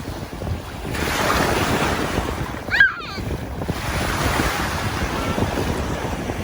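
Ocean surf washing up on a beach, with wind buffeting the microphone. About three seconds in, a brief high-pitched cry rises above it.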